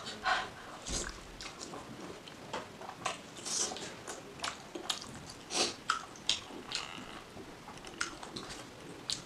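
Wet chewing and lip smacks of someone eating soft fried egg dipped in chutney by hand, an irregular run of short smacks with a few louder ones.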